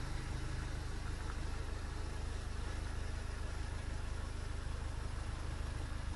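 A 2014 Seat Leon Cupra 280's turbocharged 2.0-litre four-cylinder idling steadily through a non-resonated Cobra cat-back exhaust.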